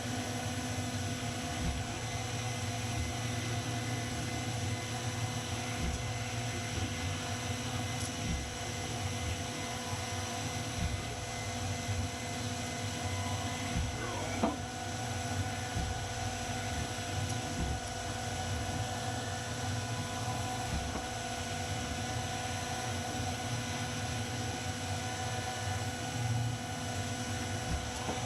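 Haas CNC mill running a machining cycle: a steady mechanical hum with several constant whining tones, and a brief change in pitch about halfway through.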